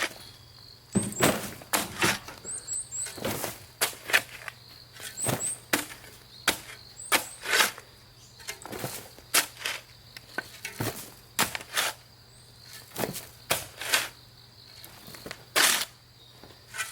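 A shovel digging into the ground: irregular scrapes and knocks of the blade, one or two a second.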